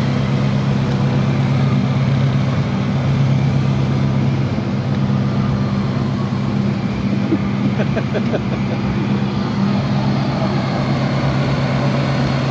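Rally car engine idling steadily at low revs, over general crowd chatter, with a brief burst of voices about eight seconds in.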